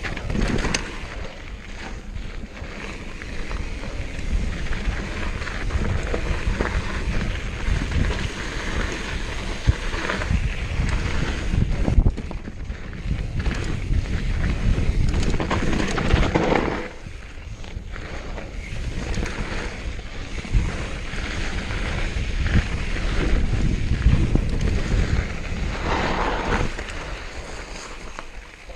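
Wind buffeting the microphone of a mountain bike in motion on a dirt trail, with irregular knocks and rattles from the bike over rough ground.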